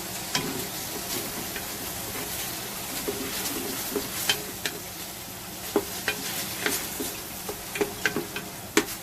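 Onions, shallots, garlic and ground chili sizzling in hot oil in a pot while being stirred, with irregular scrapes and clicks of the utensil against the pot.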